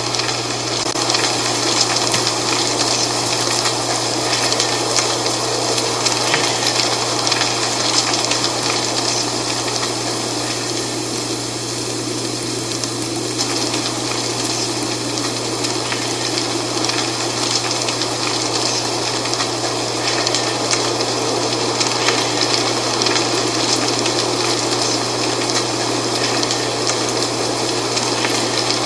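Dry autumn leaves rustling in a steady wind: a continuous hiss with fine crackle that swells and eases a little, over a constant low hum.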